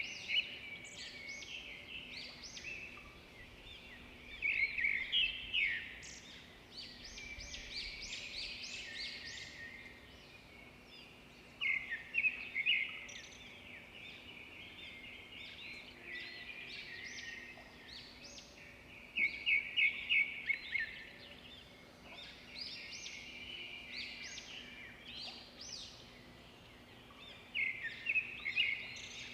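Several songbirds chirping and singing at once, a dense chorus of short high notes with louder bursts of song every several seconds.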